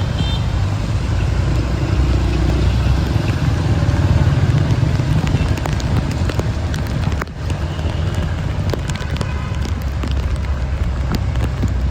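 Motor vehicle running with a steady low rumble, with scattered crackles throughout and a brief drop in level about seven seconds in.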